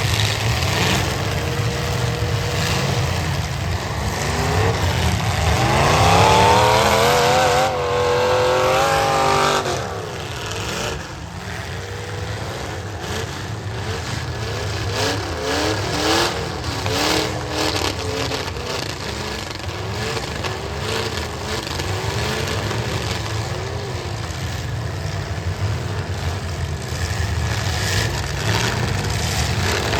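Demolition derby cars running hard under a steady low engine rumble, one engine revving up steeply about five seconds in, with repeated sharp knocks and clanks of metal bodies hitting one another.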